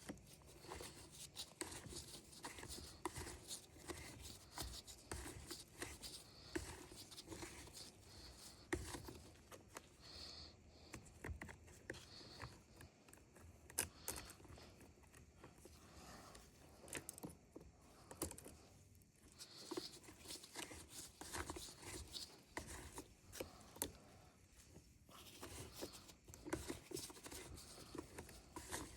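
Faint, irregular clicks, taps and rustling from hands working small parts and tools.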